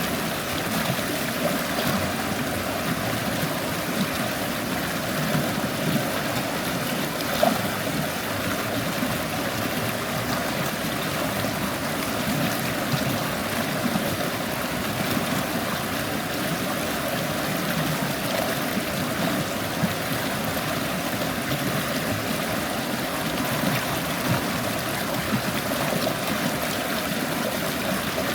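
A small stream babbling and trickling over stones, a steady rushing with little splashes.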